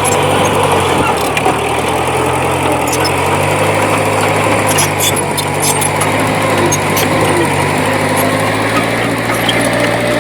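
Diesel engine of a D20P bulldozer running steadily, its pitch shifting a little, with scattered light clicks.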